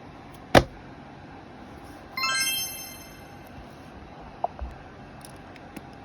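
A sharp tap, then a bright chime-like note that rings and fades over about a second, followed by a couple of faint clicks.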